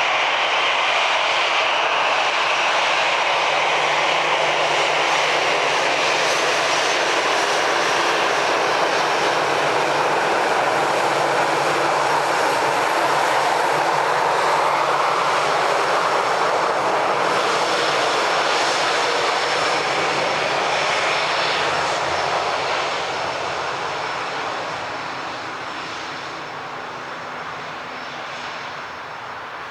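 Airbus A320's two CFM56-5B4/P turbofan engines on a landing pass close by: a loud, steady jet noise with a rushing hiss. It fades away steadily over the last eight seconds or so.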